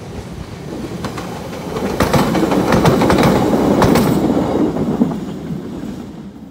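A 1938 ex-London Underground tube stock electric train (Island Line Class 483) passing close by. Its rumble builds, peaks and fades, with two sets of clickety-clack from the wheels crossing rail joints, the first about two seconds in and the second about four seconds in.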